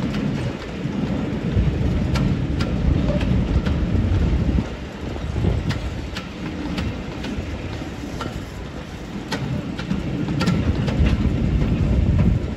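A train of passenger coaches rolling slowly past: a low rumble with steel wheels clicking over rail joints and points, louder at the start and again near the end.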